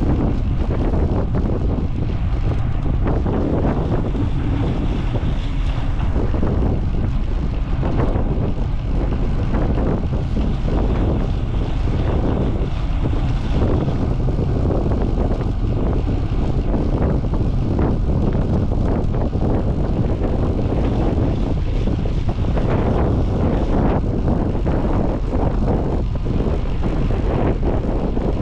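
Wind buffeting the microphone of a moving rider's camera, a steady loud rumble that flutters throughout.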